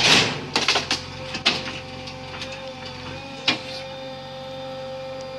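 A motor's steady high whine, with several sharp knocks in the first second and two more later, one of them near the middle.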